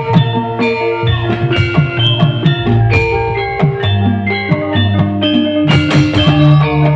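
Live band music: an instrumental passage with drums and a bass line under sustained pitched melody notes.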